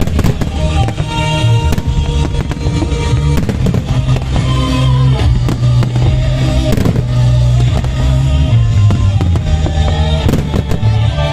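Fireworks going off in repeated sharp bangs and crackles, over music with a steady bass line and held notes.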